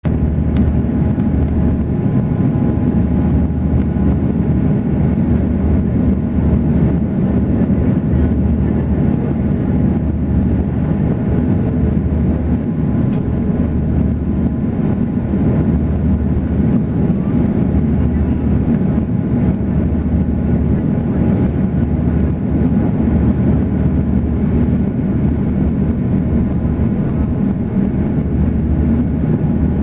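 Steady cabin drone of an Airbus A340 airliner in flight: engine hum and airflow noise, even and unbroken, with a few faint steady tones in it.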